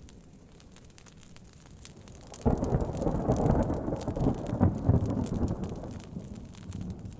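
A thunderclap breaks in suddenly about two and a half seconds in and rumbles, fading away over about four seconds. Underneath, steady rain patter on a tent and the scattered pops of a crackling wood fire.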